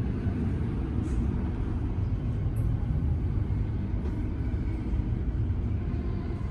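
Steady low rumble of an electric suburban train heard from inside the carriage as it runs into the station, with a few faint clicks.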